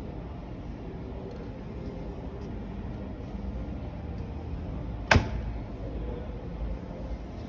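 Steady low rumble of background noise with one sharp knock about five seconds in.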